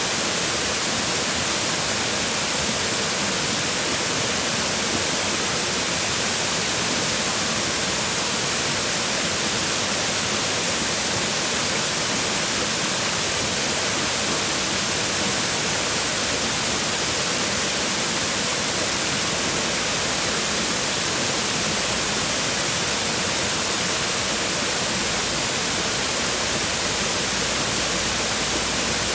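Waterfall: water falling and splashing onto rocks, a steady full rushing noise with no change in level.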